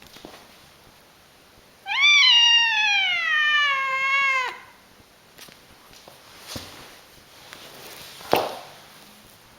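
Domestic cat giving one long, loud yowling meow of about two and a half seconds, rising sharply in pitch and then sliding slowly down. A few faint clicks follow, with one short sharp click near the end.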